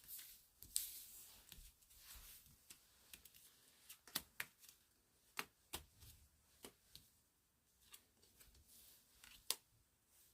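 Faint, irregular sharp clicks and soft rustles over near silence, about a dozen ticks scattered unevenly.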